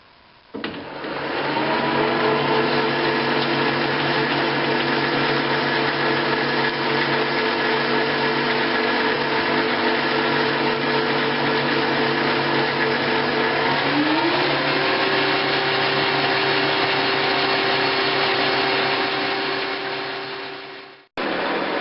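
Smithy Granite I-Max GN1340 combination lathe/mill starting up and running on a test run after its quick change gearbox was rebuilt, with a steady motor and gear whine. About two-thirds through, the whine glides up to a higher steady pitch; near the end it fades, cuts out briefly and starts again.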